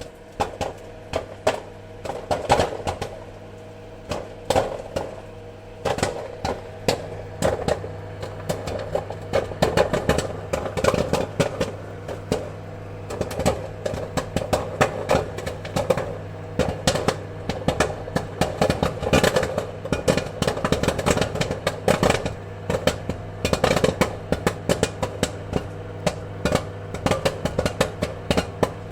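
Popcorn kernels popping in quick, irregular succession, many sharp pops crowding together at times, over a steady low hum.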